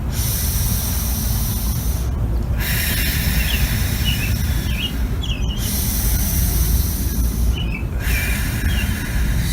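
Wind rumbling on the microphone, with a high hissing buzz that keeps stopping and starting abruptly. A few faint, short chirps come through the hiss in the middle and near the end.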